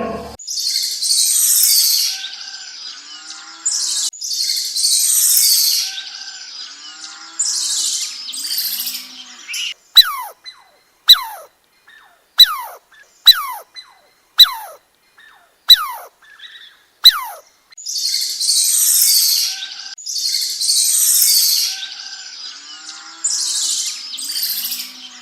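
Bird calls: harsh, high-pitched chattering bursts, and in the middle a run of about seven sharp whistles, each falling steeply in pitch.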